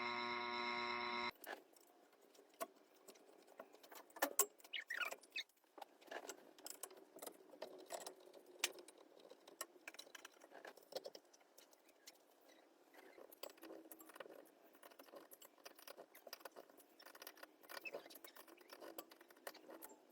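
Scattered light clicks, taps and small rattles of hands handling ceiling fan parts and small hardware during a repair. They follow a steady tone that cuts off suddenly about a second in.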